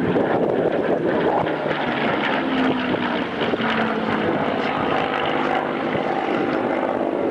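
Supermarine Spitfire's Rolls-Royce Merlin V12 engine running steadily as the fighter flies its display, a continuous propeller drone.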